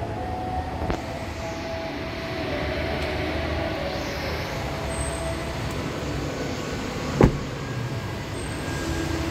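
Steady indoor background noise, broken about seven seconds in by a single loud thud of the Fiat Pulse Abarth's rear door being shut.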